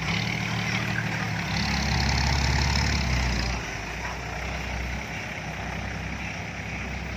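Dump truck's diesel engine running, louder for a couple of seconds before dropping back to a lower, steady idle about three and a half seconds in.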